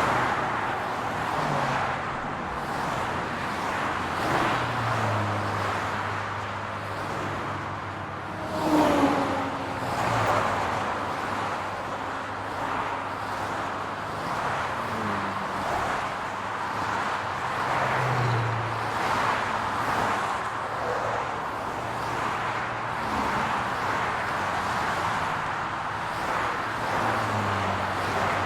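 Steady city road traffic: cars driving past with engine hum and tyre noise, one passing louder about nine seconds in.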